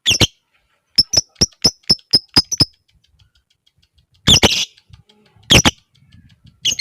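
Lovebird calling: a shrill chirp, then a quick run of about nine sharp ticking notes (the 'ngetik' call), followed by two more loud shrill chirps.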